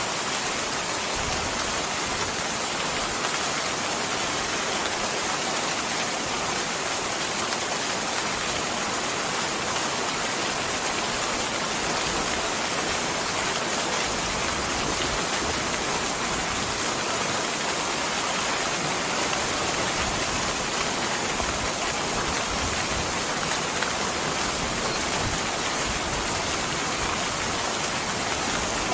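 Steady rain, a dense even hiss of falling rain that neither builds nor fades.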